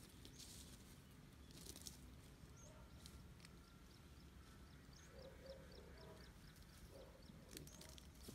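Faint outdoor ambience: a low rumble, with a quick series of small, high bird chirps a few seconds in and a few light clicks.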